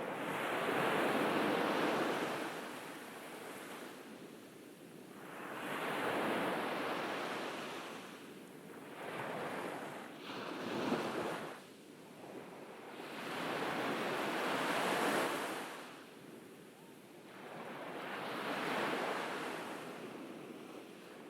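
Ocean waves breaking and washing up on a beach, each wave swelling and fading in turn, about five in all, with a sharper splash about eleven seconds in.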